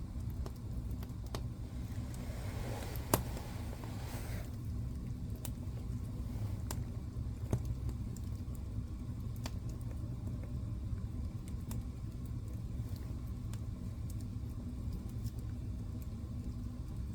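Wood fire burning in a fireplace: a steady low rumble of flame with scattered crackles and pops, one louder pop about three seconds in, and a brief hiss rising and fading around it.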